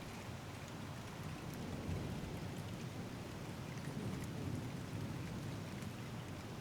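Steady rain with scattered drops ticking, under a low, rolling thunder rumble that swells and fades.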